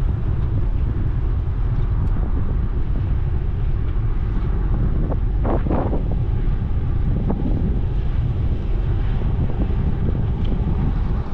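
Wind buffeting the microphone of a moving bicycle, a steady low rumble, with a brief louder sound about five and a half seconds in.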